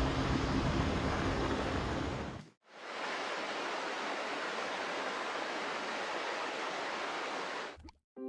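Water of a waterfall rushing steadily, after a cut about two and a half seconds in; before the cut, a noisy rumble with a low drone.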